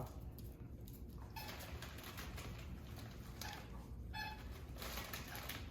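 A few faint, short squeaks from dogs' squeaky toys over low background noise.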